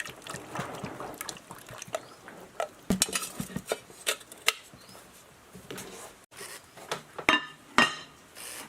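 Metal parts and tools clinking and knocking against each other in irregular handling, with a few sharper metallic clacks, the loudest near the end.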